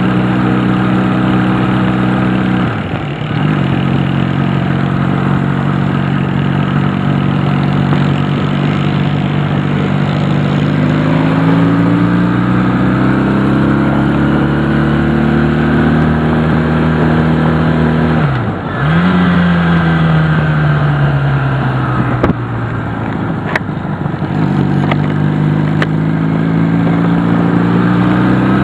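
Honda CD175 motorcycle's parallel-twin four-stroke engine pulling along the road; its pitch climbs as it revs, cuts out sharply twice as the throttle closes for gear changes, then sinks and climbs again. A few sharp clicks sound near the end.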